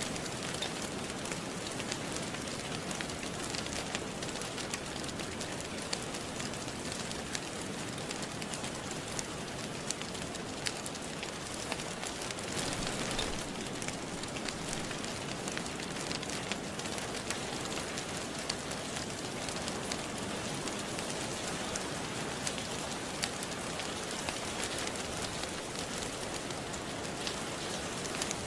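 Steady rain with a wood fire crackling, small sharp pops scattered through the even hiss.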